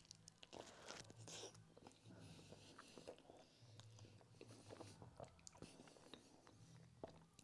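Faint chewing and small wet mouth clicks of a person eating soft food with his fingers.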